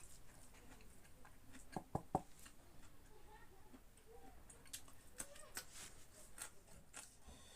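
Close-up eating sounds: wet chewing clicks and lip smacks while eating pork. Three sharp clicks come close together about two seconds in, and quicker smacks are scattered through the latter half.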